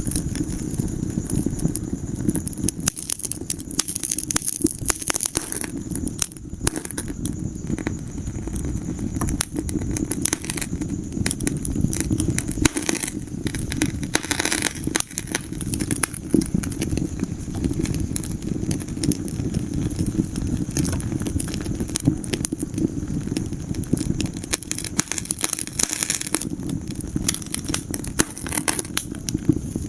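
Wood fire burning in a fireplace: frequent sharp crackles and pops of the logs over a steady low rumble of the flames.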